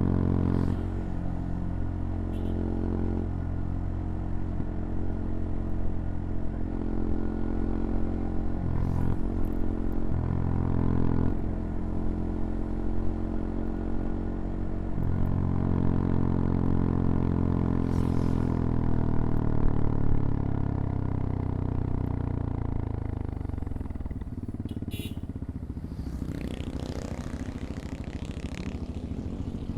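CFMoto Papio XO-1 minibike engine under way, with a few short breaks in the note as it shifts gear. About halfway through the engine note falls steadily as the bike slows, then settles lower and quieter near the end, with a few short clicks.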